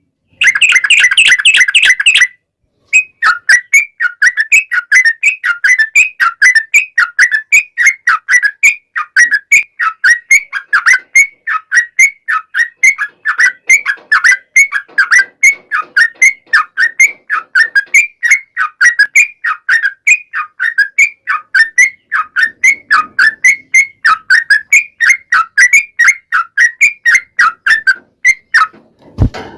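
Yellow-vented bulbul (trucukan) singing a long, rapid run of short down-slurred whistled notes, several a second. A denser, louder burst of song opens it, followed by a brief gap before the run.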